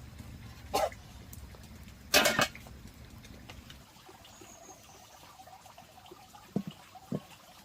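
Water sounds: two short splashes, the second louder, then two soft low drips or plops near the end.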